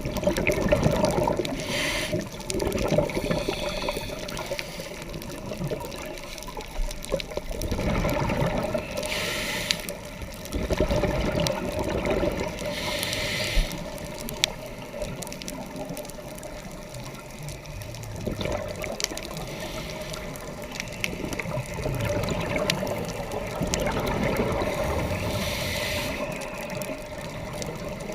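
Underwater scuba sound: a diver's regulator hissing on each inhalation a few times, between low rumbling bursts of exhaled bubbles.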